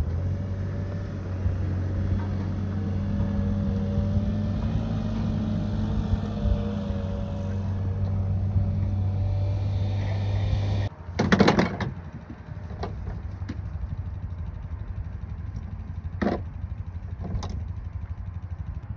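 A vehicle engine runs steadily for about eleven seconds and then cuts off abruptly. A loud knock-like burst follows, then a few scattered clicks over a quieter background.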